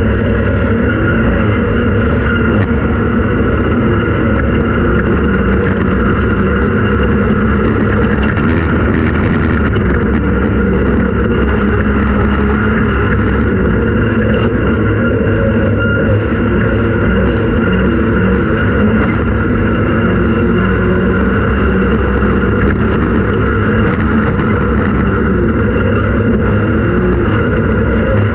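Off-road race vehicle's engine running steadily at speed, loud and unbroken.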